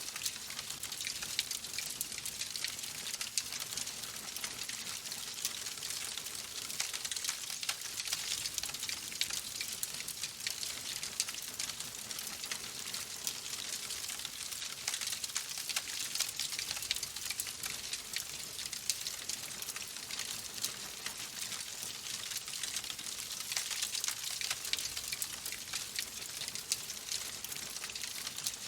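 Fire crackling in a fireplace: a steady hiss dotted with many small pops and snaps.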